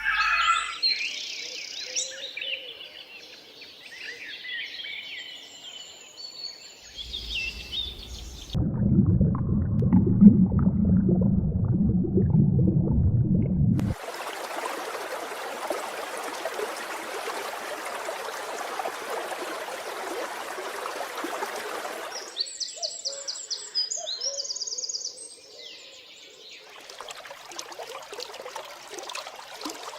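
A string of separate animal and nature sounds: bird calls and chirping, then a loud low rumbling sound for about five seconds, then a steady rushing noise, then quick high chirps again.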